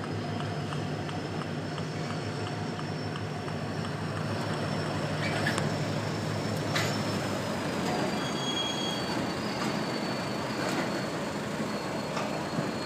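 Diesel freight train moving slowly: a steady engine drone and rumble, a thin high whine held throughout, and a few metallic clanks.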